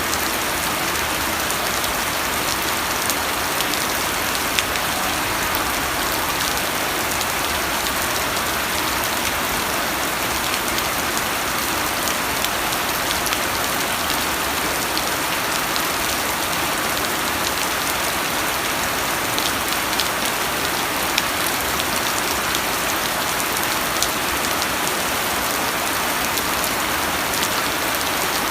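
Steady rain falling and pattering on surfaces, with occasional louder individual drops.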